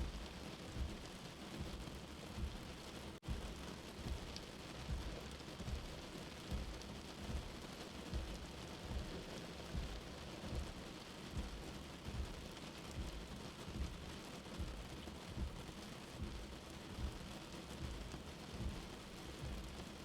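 Steady rain hiss with a soft, slow heartbeat thumping underneath at about 75 beats a minute. The sound cuts out for an instant about three seconds in.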